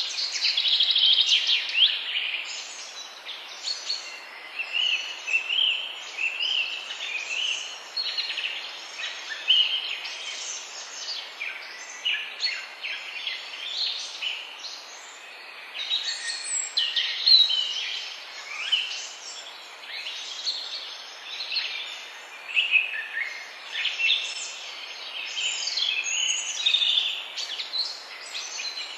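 Several songbirds singing at once, a dense run of short, high chirps and trills overlapping one another, over a steady background hiss.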